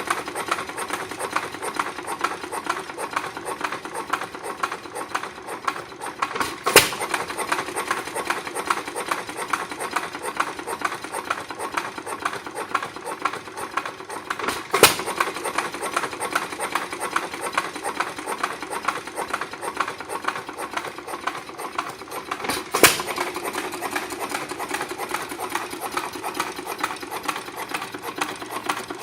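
Foos Jr hit-and-miss gas engine running, with a steady rapid mechanical clatter between firings. A sharp loud bang about every eight seconds, three in all, as it fires once and then coasts on its flywheels.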